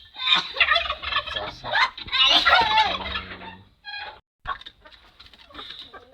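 Flock of chickens calling, many overlapping calls for the first three and a half seconds, then fainter after a brief gap.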